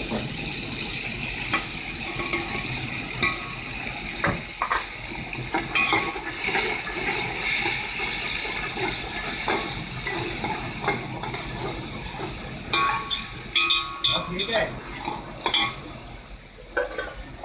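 Onions and ground spices sizzling in hot oil in an aluminium pot while a metal spoon stirs and scrapes, with scattered clinks of the spoon against the pot.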